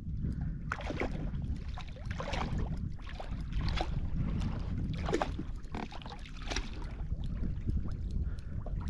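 Water splashing and sloshing around a kayak in a run of irregular short splashes, over a steady low wind rumble on the microphone.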